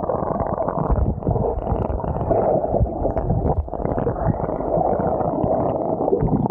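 Muffled underwater gurgling and rumbling with dull knocks, as heard by a camera held under the sea surface.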